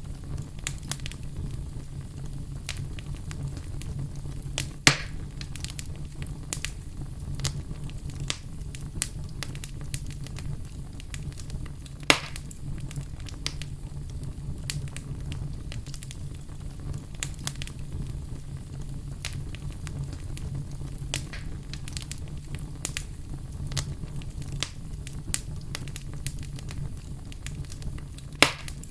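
Fire crackling, with many small crackles over a steady low rumble and three louder pops spread through.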